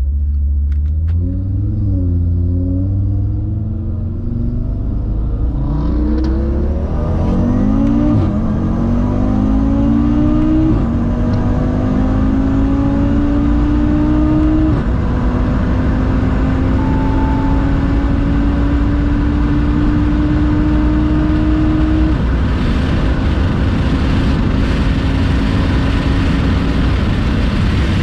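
Tuned Audi RS3's turbocharged five-cylinder engine at full throttle, pulling up through the gears. Its pitch climbs in each gear and drops sharply at each upshift, and each later gear climbs more slowly and lasts longer. Wind and road noise grow louder as the speed rises toward 300 km/h.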